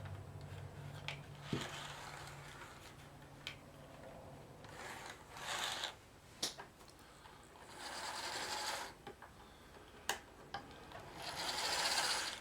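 Lima model SNCF CC 40100 electric locomotive running on a test track after repair: its small motor and gears whir and the wheels rattle on the rails, rising in four spells about a second long, a few seconds apart, with sharp clicks in between. A low hum is heard over the first couple of seconds.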